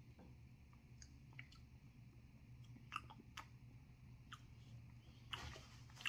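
Faint mouth sounds of a man tasting runny hot sauce off a spoon: soft scattered lip smacks and clicks, with a short rustle near the end, over a steady low hum.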